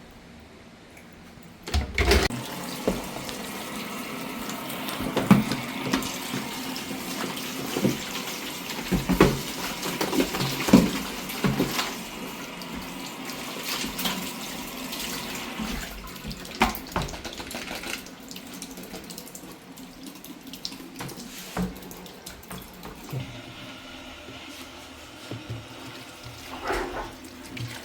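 Water running steadily, starting about two seconds in and easing in the second half, with repeated sharp knocks and clatters. It fits melting the ice off an iced-up refrigerator during a manual defrost.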